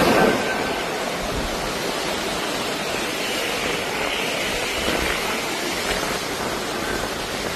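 Typhoon wind and heavy rain: a steady rushing noise that drops a little in level just after it begins.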